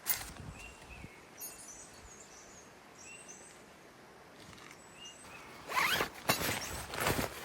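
A zipper pulled in a few quick, loud strokes starting near the end, after a quiet stretch with faint bird chirps.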